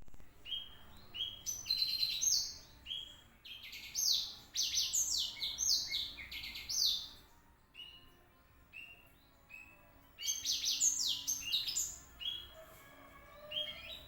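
Blackthroat (black-throated canary) singing a fast, varied song of high chirps and quick falling notes, in a long run, a pause of a couple of seconds, then a second run.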